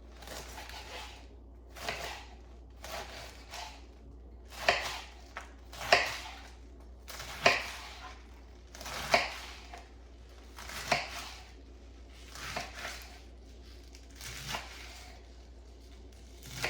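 Knife slicing through rolled-up collard greens, one cut about every second and a half.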